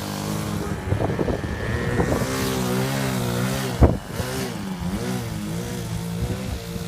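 Model airplane engine running, its pitch rising and falling as the plane flies about, with wind noise over the microphone. A sharp thump about four seconds in is the loudest moment.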